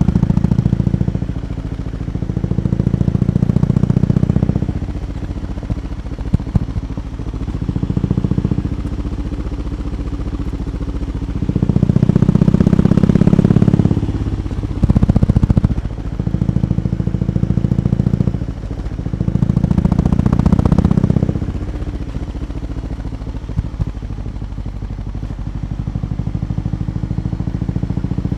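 BMW R 18 B's big boxer twin with its exhaust running, held at a steady low idle and blipped up several times, each rev lasting one to three seconds before falling back.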